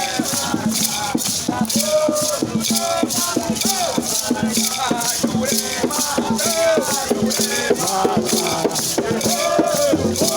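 Maracas shaken in a steady rhythm, about four shakes a second, with voices chanting a melody over them.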